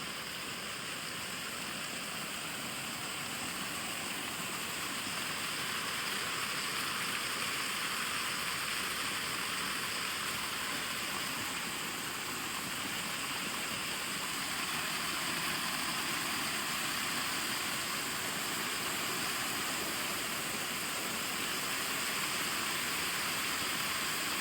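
Water pouring over a small man-made dam spillway, a steady rushing that grows slowly louder as it is approached.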